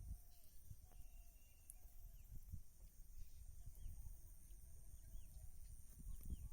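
Faint outdoor ambience: low wind rumble on the microphone, a few faint short bird chirps, and a thin steady high-pitched tone.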